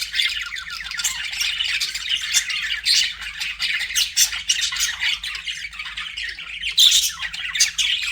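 Budgerigars chattering and warbling together in a dense, unbroken stream of quick chirps and squawks, with a few sharper, louder calls about seven seconds in.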